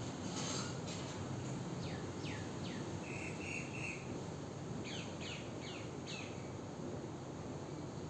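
Short downward-sliding bird chirps, a few spaced ones about two seconds in and a quick run of four about five seconds in, over a steady background hiss, with a brief even buzzing trill in between.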